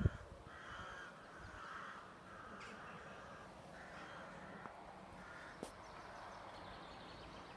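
Crows cawing repeatedly, a string of harsh calls about half a second each at uneven intervals.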